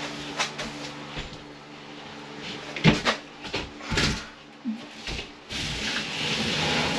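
A sheet of drywall being handled and maneuvered into place: scattered light knocks, two heavier thumps around the middle, and a scraping rush near the end as the panel slides against the framing.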